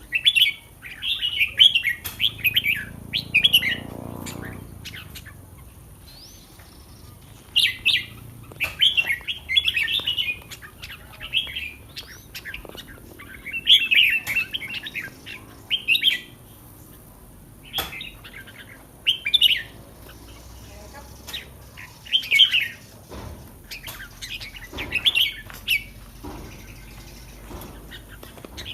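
Red-whiskered bulbul singing: bright, warbled phrases of a second or two, repeated about ten times with short pauses between them.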